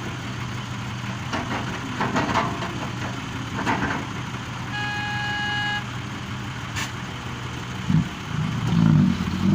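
Heavy diesel machinery of an excavator and dump truck running steadily, with bouts of clattering about one and four seconds in and a single electronic beep lasting about a second in the middle. The engine sound swells and shifts near the end.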